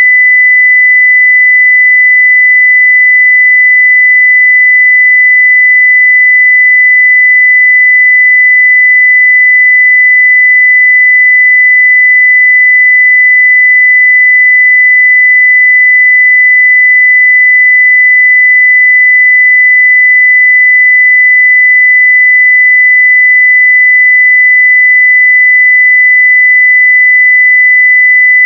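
Pure 2 kHz sine-wave test tone at full-scale level (0 dB), one steady unbroken high-pitched tone.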